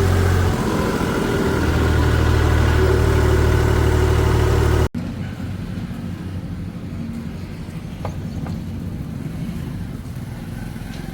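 Heavy diesel engine running steadily with a deep hum, easing off briefly about half a second in and then building again. It cuts off abruptly about five seconds in, and a quieter engine runs on after that.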